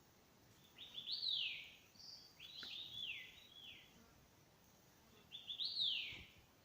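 A songbird singing three phrases. Each is a few quick notes followed by a clear slurred whistle that falls in pitch.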